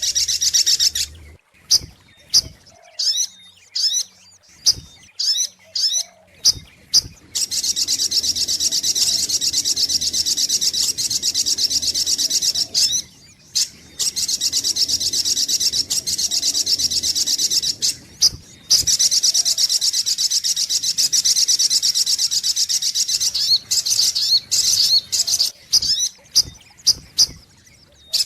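Sogok ontong (little spiderhunter) calling: a run of separate sharp, high chirps about two a second, then long, fast runs of high chirps lasting several seconds each, then separate chirps again near the end.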